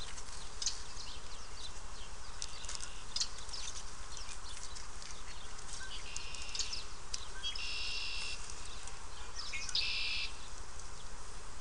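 Paper backing being peeled and torn off a pollen patty: scattered short crackles, then three longer rasping rips about six, eight and ten seconds in.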